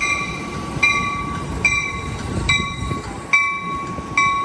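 Train warning bell ringing steadily, about one strike every 0.8 seconds, each strike ringing out before the next, over the low rumble of the train at the platform.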